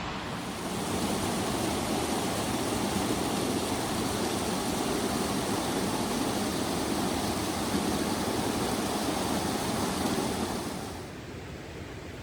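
Creek water rushing under a log footbridge, a steady wash that falls away sharply near the end.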